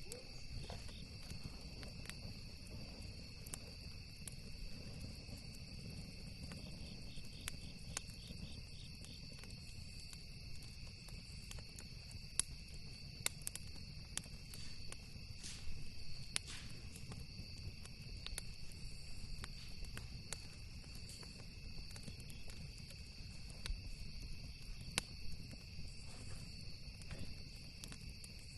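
Campfire crackling with scattered sharp pops over a steady chorus of crickets and other insects trilling, with a low rumble underneath.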